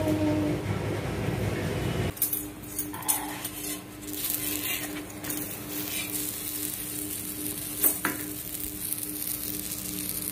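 Steel dishes and utensils clink briefly, then an onion paratha cooks on a flat tawa with a faint steady sizzle. A metal spatula clicks sharply against the pan twice, about three and eight seconds in.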